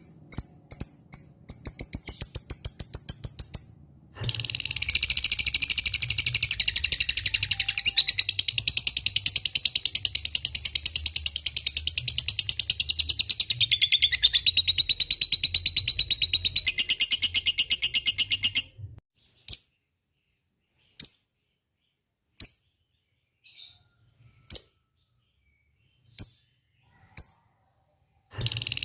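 Lovebird ngekek: a long, fast, chattering trill that runs unbroken for about fourteen seconds. It then breaks into single sharp chirps about a second apart, and the trill starts again right at the end.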